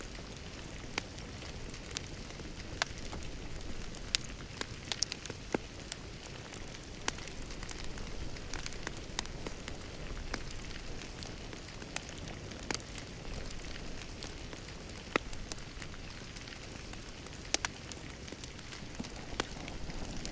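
Wood fire crackling, with sharp snaps at irregular intervals over a steady low rumble and hiss of the flames.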